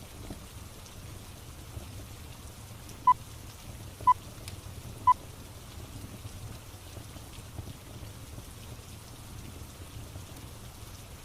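Steady rain ambience, with three short, high electronic beeps one second apart about three seconds in.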